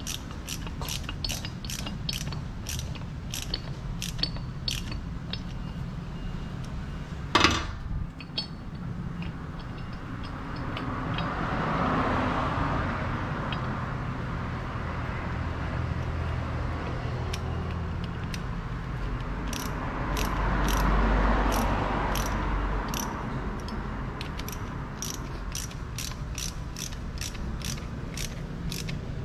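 Ratchet wrench clicking in an even run of about three clicks a second, with a single louder clank about seven seconds in.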